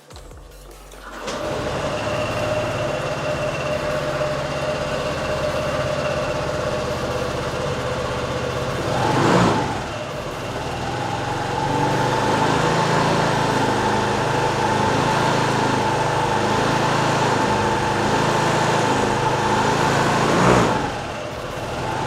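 2014 Honda SH125 scooter's 125 cc single-cylinder four-stroke engine starting about a second in and then idling steadily, with two brief revs, one about nine seconds in and one near the end.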